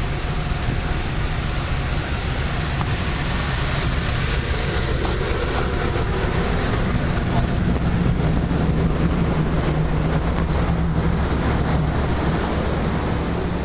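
Steady low drone of a large passenger ferry's machinery, with wind rushing over the microphone on the open deck.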